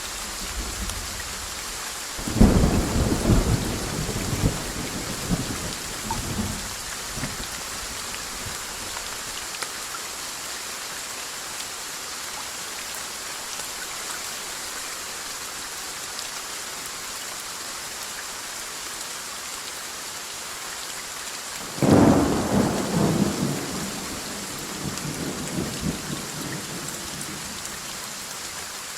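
Steady rain hiss with two thunderclaps, one about two seconds in and one near twenty-two seconds in, each starting suddenly and rumbling away over several seconds.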